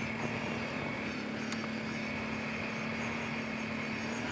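Kawasaki Brute Force 750 ATV's V-twin engine running at a steady pace while riding along a trail, a constant hum over steady noise.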